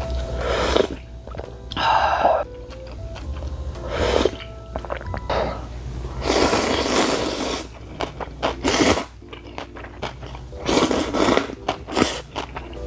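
A person eating spicy noodles close to the microphone: a series of separate slurping and chewing noises, about eight in all, each up to a second or so long.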